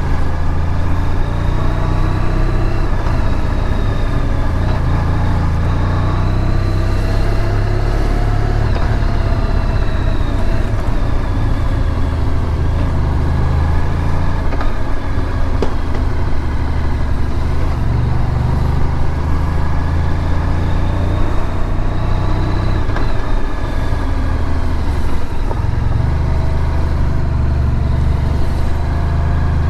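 Honda VFR1200X Crosstourer motorcycle engine running while riding along, its pitch rising and falling slowly with speed, over a constant low rumble.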